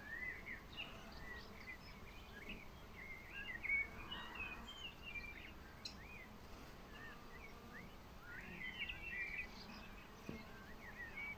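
Small birds chirping and twittering in quick overlapping calls, busier in two spells, over a faint outdoor background hiss.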